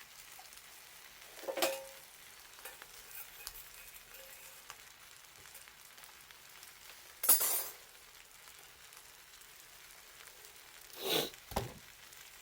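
Bonfire sizzling and crackling faintly. Three louder sudden hissing pops stand out, about one and a half, seven and eleven seconds in, the middle one the loudest. A low knock follows the last.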